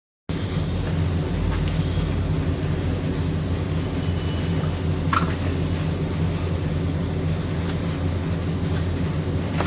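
Motorcycle engine idling steadily at an even level, the warm-up run of a bike that has stood unused for a week; it comes in abruptly just after the start. A brief tick about halfway through.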